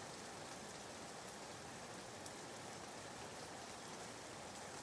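Soft, steady rain used as background white noise: an even gentle hiss with faint scattered drop ticks.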